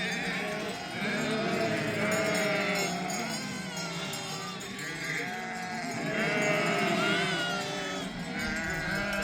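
A flock of sheep bleating, many calls overlapping continuously.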